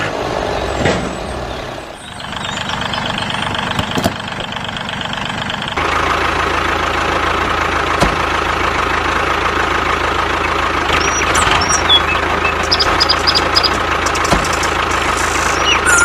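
The motor of a DIY miniature tractor with a rotavator runs steadily with a constant whine while working in mud. It gets louder and fuller about six seconds in. Short high chirps come in over the last few seconds.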